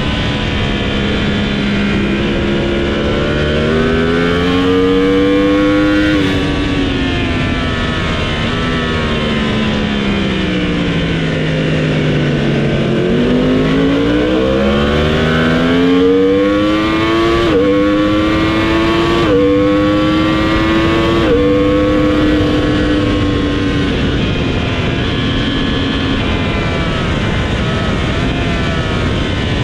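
Motorcycle engine heard onboard at track speed, with wind rush. It revs up, falls away in pitch as the bike slows for a corner, then pulls hard again through three quick upshifts about two seconds apart before holding a steady speed.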